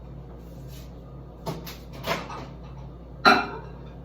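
A few short knocks and clunks of kitchen handling as chili is moved into a bowl for the microwave: three or four sharp knocks, the loudest about three seconds in, over a steady low hum.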